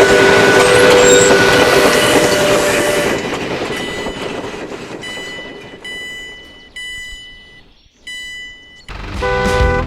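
Train sound effect: a loud rushing rail noise with a steady horn note that fades away over several seconds, followed by a few short, high repeated tones. A new loud sound with several stacked tones starts near the end.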